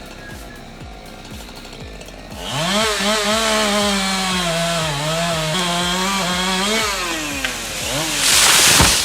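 A chainsaw running at high revs for about four seconds, its pitch sagging and picking back up as it cuts, over background music with a steady beat. Near the end comes a short, loud hissing burst.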